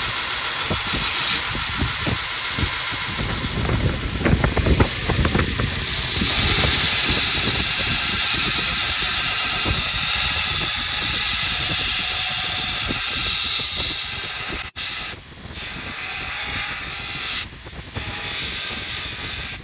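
Grizzly 2x42 belt grinder with a coarse 36-grit Norton abrasive belt grinding the steel knife blade, a steady harsh hiss. It drops away briefly twice near the end as the blade comes off the belt.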